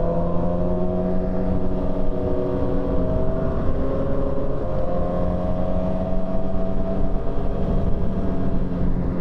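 Sport motorcycle engine running under way, its note climbing slowly, then dropping about four seconds in before climbing again. Wind rush sits steadily underneath.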